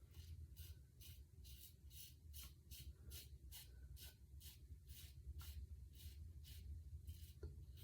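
Faint, quick scratching strokes against skin during a wet shave, about three a second, evenly repeated.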